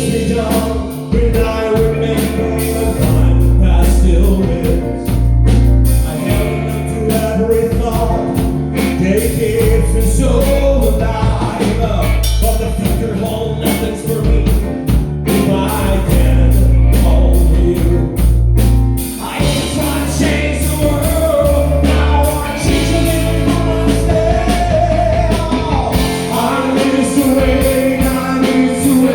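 A rock song: a lead vocal sings over a full band with drum kit, bass and guitar.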